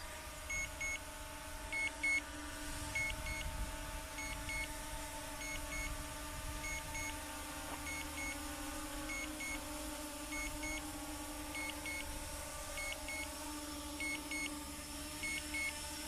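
JJRC X9 Heron quadcopter's motors and propellers humming steadily as it descends under GPS return-to-home, with paired electronic beeps repeating about once a second.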